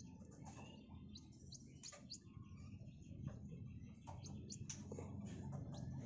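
Faint songbird calls: a few short, high chirps scattered through, with some small clicks in between.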